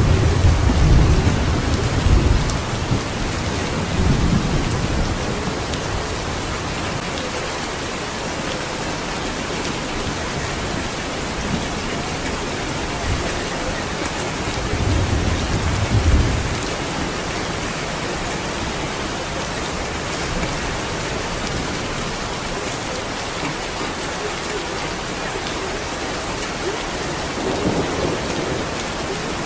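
Steady heavy rain, with low rolls of thunder at the start, about four seconds in, about midway and again near the end.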